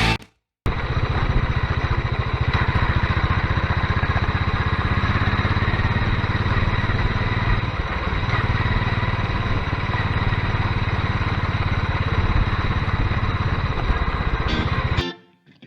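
Royal Enfield motorcycle engine idling steadily, a fast even beat of firing pulses, cutting off abruptly near the end.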